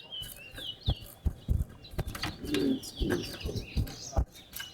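Caged towa-towa finch singing a quick, warbling twitter of short rising and falling notes, sung in a bird-singing race where each song is counted. Several short low knocks sound through it.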